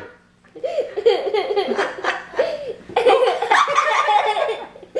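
People laughing in two long bouts, the first starting about half a second in and the second about three seconds in, over a faint steady hum.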